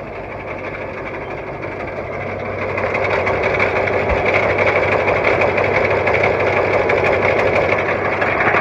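International T444E V8 turbo diesel idling cold with a fast, even clatter, growing louder about three seconds in. The clatter is the unexplained engine noise the owner is trying to track down after a breakdown.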